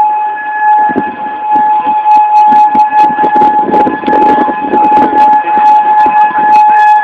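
Outdoor tornado warning siren sounding one steady, unwavering tone, over rough background noise and crackle on the phone microphone.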